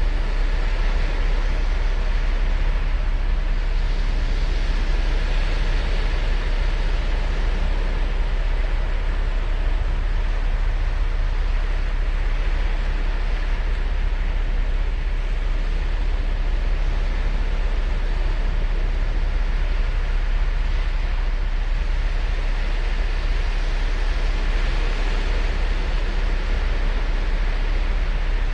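Ocean surf on a sandy beach: a steady wash of waves, with breakers swelling up and falling back a few times, about 5, 12 and 25 seconds in, over a constant deep rumble.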